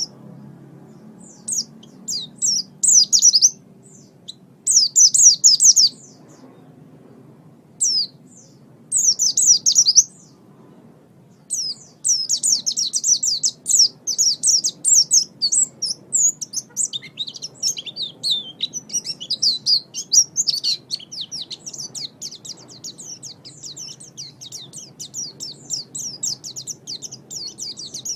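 White-eye (pleci) singing: rapid high-pitched twittering phrases, in short bursts separated by pauses during the first part and then a long, almost unbroken run of song from about halfway through.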